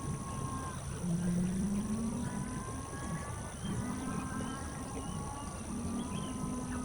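Animal calls: drawn-out, slightly wavering pitched calls repeating every second or two, over a steady high-pitched hum.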